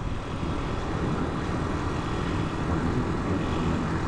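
Italika 250 motorcycle engine running while riding, with steady wind and road noise on the bike-mounted camera's microphone.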